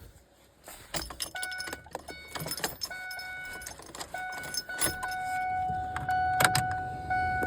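Keys jangling and clicking at the ignition of a Ford F-150 King Ranch pickup, with the dashboard warning chime sounding as short repeated tones and then a longer steady tone.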